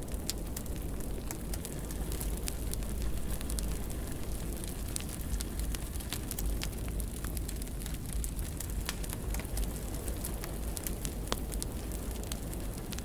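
Wood fire burning in a fireplace: a steady low rumble of the flames with frequent sharp crackles and pops scattered irregularly, one louder pop about eleven seconds in.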